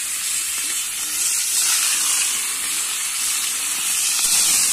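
Small salted fish frying in hot seasoned fat in a frying pan, a steady sizzle.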